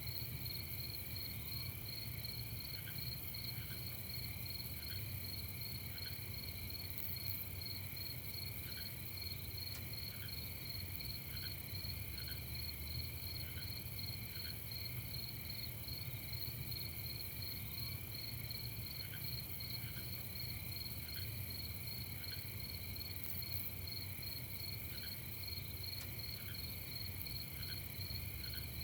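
Night insect chorus of crickets trilling steadily in several overlapping high pitches, with a slower, lower chirp repeating about once a second in runs over a steady low rumble.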